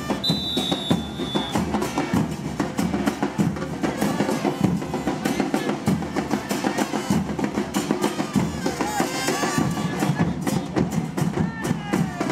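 Carnival murga percussion: bass drums and cymbals hit in a fast, driving rhythm. Near the start a single high whistle sounds for about a second.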